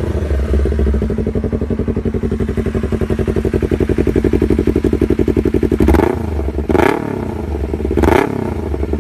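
Yamaha R25's parallel-twin engine idling through an Enzo R carbon full-system exhaust, with a steady, even exhaust pulse. Three short, sharp bursts come about six, seven and eight seconds in.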